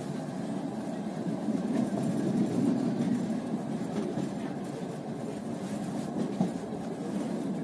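Passenger train carriage running along the track, heard from inside the car: a steady low rumble of wheels on rails with a few light knocks.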